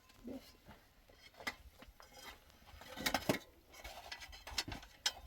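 Scattered light knocks, taps and clinks of small hard objects being handled, with a denser cluster about three seconds in.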